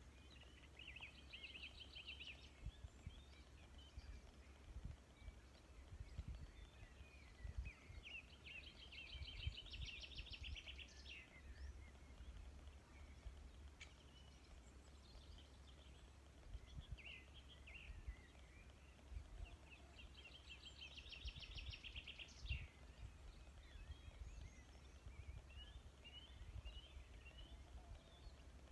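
Faint songbirds singing in short phrases with rapid trills, a few times over the span, over a low, uneven rumble.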